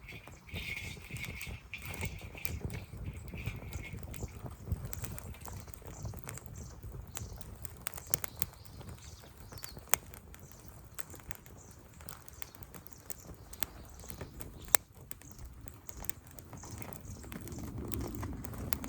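Freshly lit campfire crackling, with irregular sharp pops and two louder ones about ten and fifteen seconds in, over a steady low rumble. A high hiss fades out about four seconds in.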